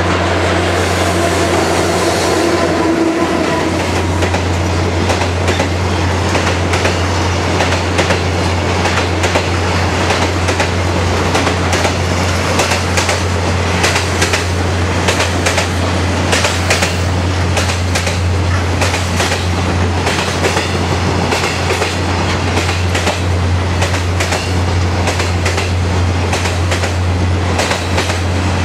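Freight train rolling through a station at speed, a steady rumble with a continuous fast clatter of wheels over the rail joints.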